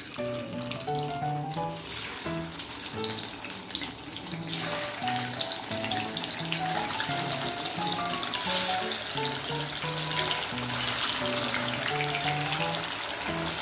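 Paneer cubes sizzling in hot mustard oil in a kadhai as they are dropped in; the sizzle grows louder about four and a half seconds in as more cubes go in. A light background music tune plays along.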